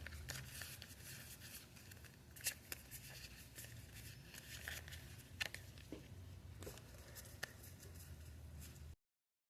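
Faint rustling and light clicks of Pokémon booster packs and trading cards being handled and torn open, over a low room hum; the sound drops out completely just before the end.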